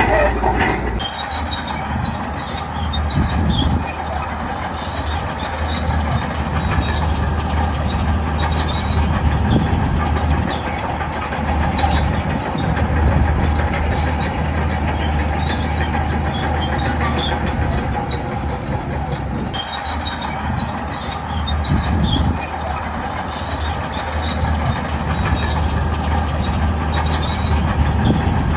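Shantui crawler bulldozer working, its diesel engine running steadily under load while the steel tracks clank and squeal.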